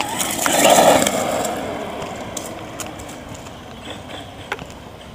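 Redcat Volcano electric RC monster truck running with its tyres on cement, loudest about a second in and then fading as it moves off, with a few sharp clicks.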